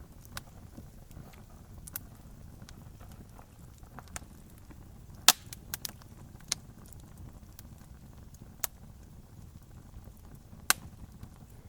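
Campfire crackling: sharp pops and snaps of burning wood scattered over a low, steady rumble, with the loudest snaps about five seconds in and again near the end.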